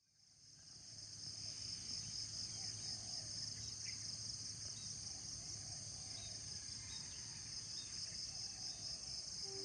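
Insects chirping in a steady, high-pitched chorus with a fine pulsing texture, fading in over the first couple of seconds.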